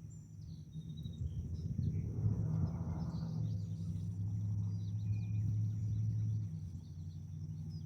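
Outdoor ambience: a steady low rumble that swells in the middle and eases off near the end, with faint short bird chirps and a thin, steady high insect-like drone.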